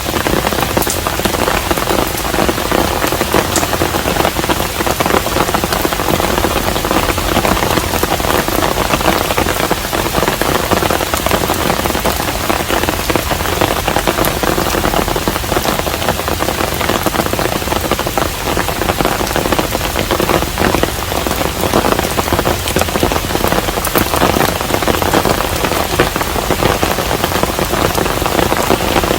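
Steady, heavy rain falling on a hanok, a traditional Korean house, with a dense patter of individual drops hitting.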